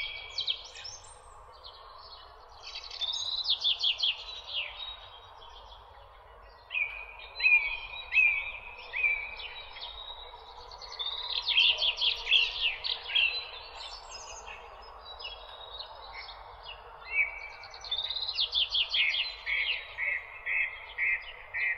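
Songbirds singing: phrases of quick repeated high notes and short sweeping notes, coming again every few seconds, over a steady background hiss.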